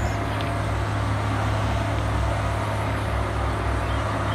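Steady low mechanical drone with a strong, constant low hum, from equipment working on railroad tracks.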